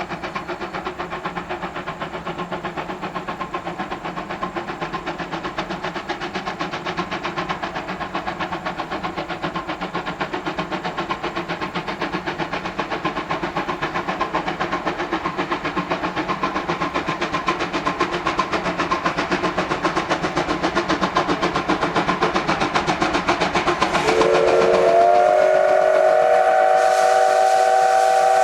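Steam locomotive approaching under steam, its exhaust beating in a fast, even rhythm that grows steadily louder. About 24 s in its steam whistle sounds, a long held note that continues to the end.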